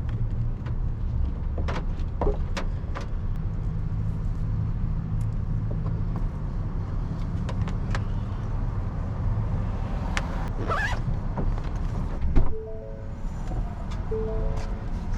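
Steady low vehicle rumble with scattered clicks and knocks. A loud thump comes about twelve seconds in, followed by several short tones at a few different pitches.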